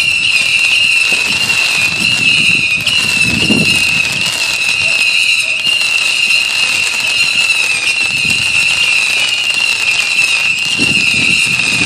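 A steady high-pitched chirring drone, typical of night insects such as crickets or katydids on a summer evening. It is joined by a few dull booms of distant fireworks, about three and a half seconds in and again near the end.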